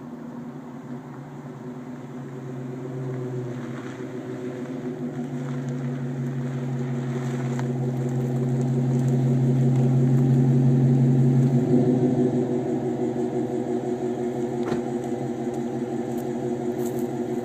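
Exhaust of a 2010 Chrysler 300S's 5.7 HEMI V8 through a Flowmaster 40 muffler with the resonator deleted, running with a steady low drone that grows louder over about ten seconds, then eases back about twelve seconds in and carries on steadily.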